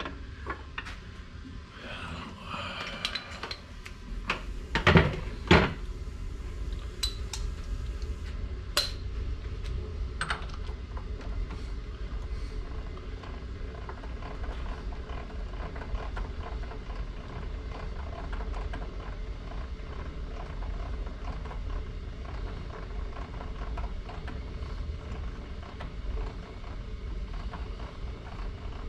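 Metal tooling being handled at a milling machine: scattered clinks and knocks, with two louder knocks about five seconds in, then a steady low hum.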